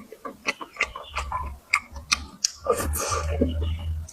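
Close-miked eating: quick irregular clicks and smacks of chewing and utensils, with a low rumble building from about a second in and strongest near the end.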